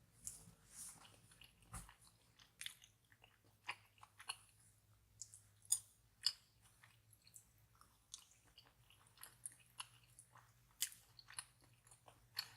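Close-up mouth sounds of a person chewing and eating sticky rice cakes: soft, irregular wet clicks and smacks.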